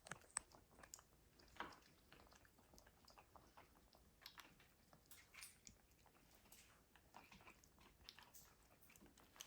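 Faint, scattered crunching and clicking of a blue and gold macaw eating, its beak working food, with the sharpest click about half a second in.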